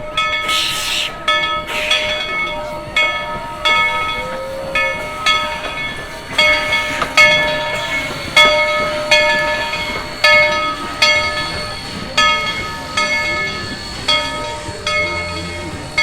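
Train's bell ringing steadily, about one and a half strokes a second, each stroke ringing on and fading. A short burst of hiss comes in the first second or so.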